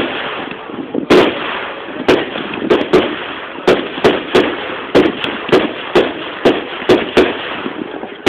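Fireworks display: aerial shells bursting in quick succession, about fourteen sharp bangs at uneven intervals, over a steady wash of noise between them.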